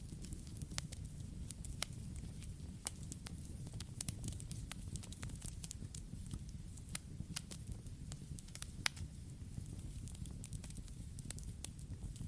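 Wood campfire burning, a steady low rumble of flames with many irregular sharp crackles and pops.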